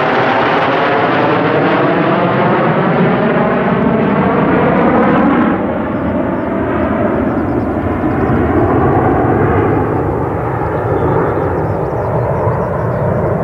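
Four F-4 Phantom II fighters passing overhead in diamond formation, their J79 turbojet engines a loud, continuous jet roar with a sweeping, phasing tone as they go by. The hiss fades about five and a half seconds in as the jets move away, leaving a lower rumble.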